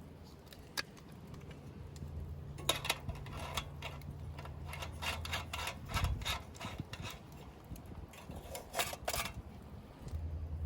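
Clusters of light clicks and knocks over a low steady hum. The hum drops out about six seconds in and comes back near the end.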